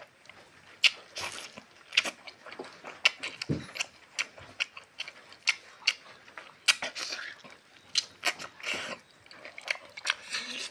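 A person eating fried meat and rice with their hands close to the microphone: irregular wet chewing and mouth clicks, several a second.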